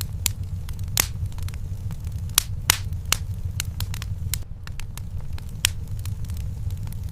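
Wood fire in a fireplace crackling: irregular sharp pops and snaps over a steady low rumble from the flames.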